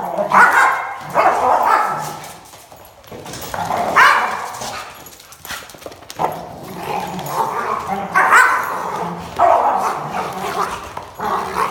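A dog barking and yipping in a series of short, irregular calls, some sliding in pitch.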